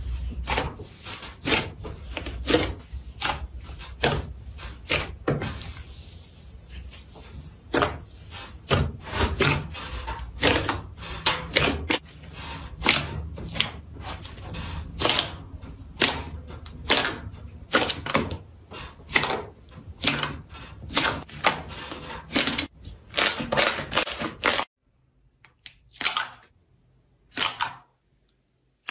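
Slime being pressed, poked and stretched by hand, with irregular sharp pops and clicks from air pockets bursting. About 25 seconds in, the background drops away and only a few separate clicks remain.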